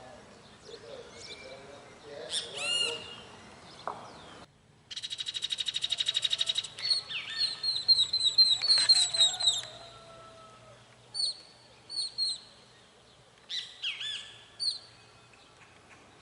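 Songbirds singing: a fast trill that grows louder about five seconds in, followed by runs of sharp chirps and short whistled calls.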